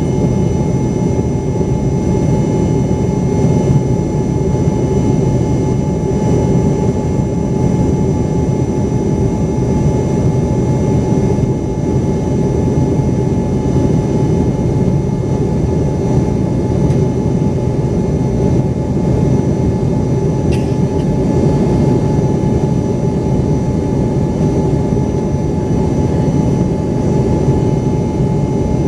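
Embraer ERJ-135's twin rear-mounted Rolls-Royce AE 3007 turbofans running steadily, heard from inside the passenger cabin: a dense, even rush of noise with a steady whining tone over it. A brief click sounds about twenty seconds in.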